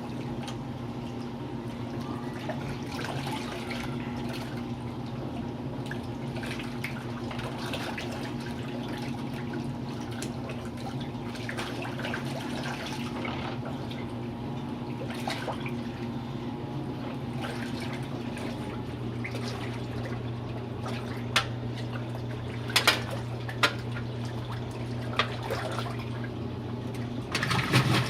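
Electric washing machine running: water sloshing in the tub over a steady motor hum, with a few sharp knocks. Near the end it gets louder, with a fast rattling.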